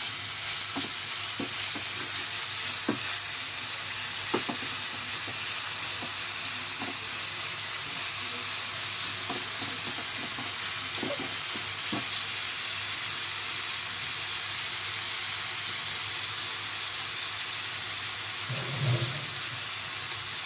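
Chicken strips sizzling in oil in a non-stick wok over a high flame. A silicone spatula stirs and taps against the pan in scattered clicks during roughly the first dozen seconds.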